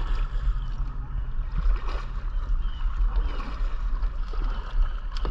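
Water sloshing and gurgling around a fishing boat, over a steady low rumble of wind on the microphone, with a few faint high chirps.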